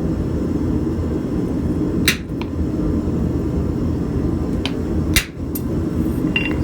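Hammer striking hot steel on an anvil while forging and texturing a leaf: a few sharp, irregularly spaced blows over a steady low rumble.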